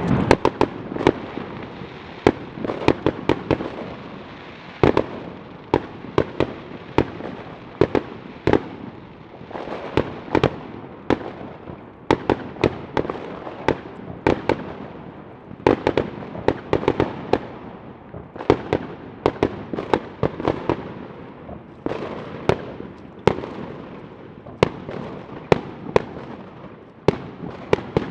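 Fireworks going off continuously: a rapid, irregular stream of sharp bangs and cracks, several a second, over a rolling background of distant explosions.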